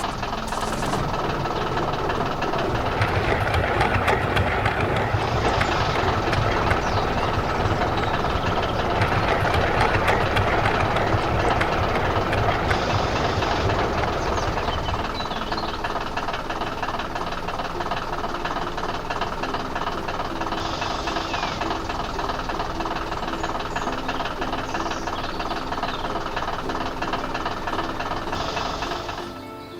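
Tractor engine running with a steady knocking chug, fuller and louder for several seconds from about three seconds in, then settling back about fifteen seconds in.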